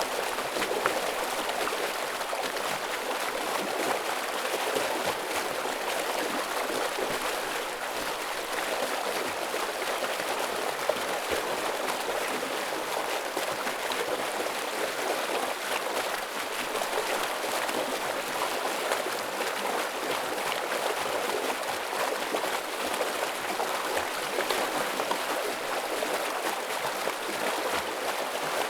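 A heavy stream flowing, a steady rush of water with small sharp splashes scattered through it.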